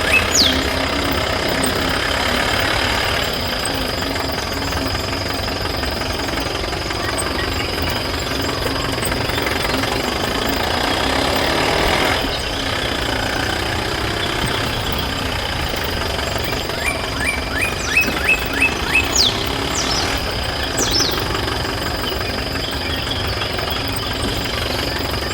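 Small engine running steadily with a knocking beat, with a run of short high chirps in the second half.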